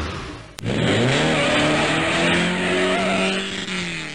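Car engine sound effect: a click, then the engine revs up quickly and holds at high revs for about three seconds before easing off near the end.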